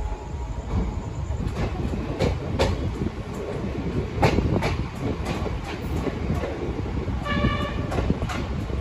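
Moving passenger train heard from the open door of a sleeper coach: a steady rumble with irregular clacks of the wheels over rail joints, and a short horn blast about seven seconds in.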